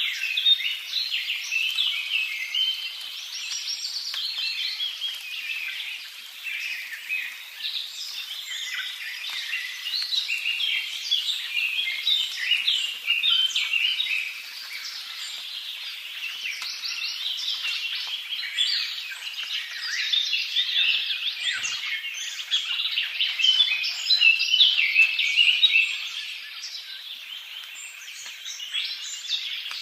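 Many small birds chirping and twittering at once in a dense, continuous, high-pitched chorus.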